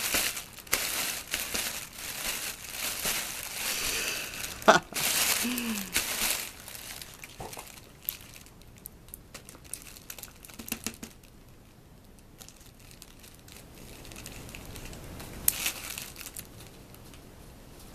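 Crinkling and rustling as a cat moves about in crinkly material, busy for the first half and then dying down to faint, scattered rustles with a short burst near the end.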